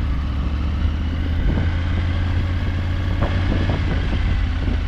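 Motorcycle engine idling steadily, with a few faint knocks.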